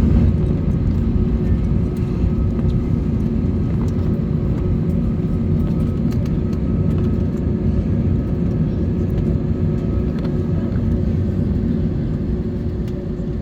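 Wizz Air A321neo airliner running, heard as a steady heavy rumble with a steady hum of engine tones on top, easing slightly in loudness.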